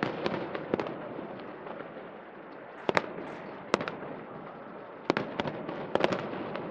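Aerial fireworks exploding, a series of sharp bangs at irregular intervals, some in quick clusters, over a steady background din.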